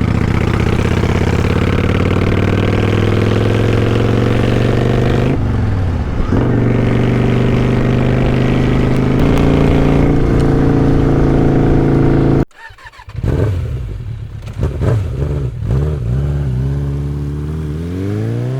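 Kawasaki Vulcan 900's V-twin engine pulling away under acceleration, its pitch climbing through the gears with shifts about five and nine seconds in. About twelve seconds in it cuts off abruptly to a quieter stretch where the engine pitch rises and falls.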